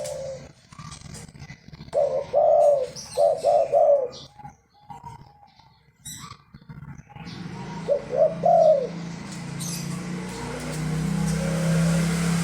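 Pet doves, a spotted dove (tekukur) and a Barbary dove (puter), cooing back and forth in short runs of rounded coos, with one run about two seconds in and another near the end. A steady low hum builds under the later coos.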